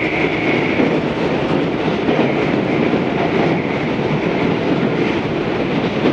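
Tobu 634 type electric train running along the line, heard inside the car: steady rolling noise of wheels on rail, with a high tone fading out in the first second.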